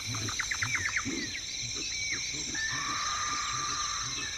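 A group of drills grunting low and rhythmically, about two to three grunts a second, over a steady high insect chorus. A quick run of sharp high notes comes about half a second in, with a few short whistled calls after it.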